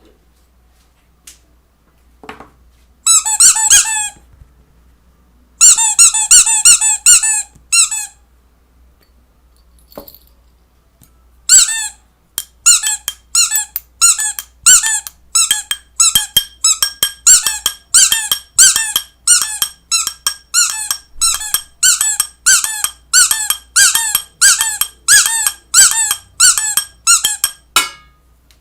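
Repeated short, high squeaks, each with a clear pitch. There is a brief cluster about three seconds in and a quicker run from about six to eight seconds, then a steady series of about two squeaks a second from about twelve seconds until near the end.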